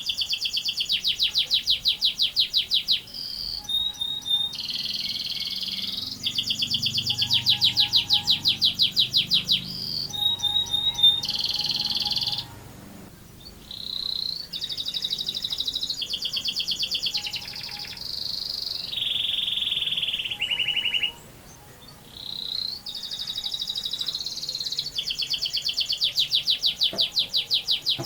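Domestic canary singing long rolled trills: fast runs of repeated high notes, phrase after phrase, with short pauses about 13 and 21 seconds in.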